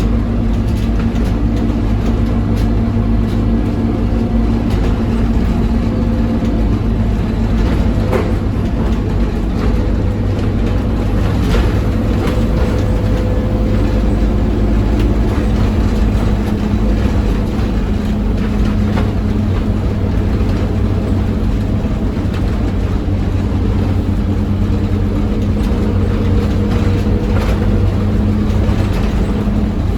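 Scania OmniCity double-decker bus's diesel engine pulling hard at full throttle, a steady loud drone with a deep rumble, with a few short clicks and knocks.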